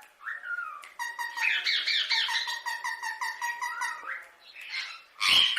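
Indian ringneck parakeet chattering in a fast run of repeated pitched notes, about six a second, then giving one loud harsh squawk near the end.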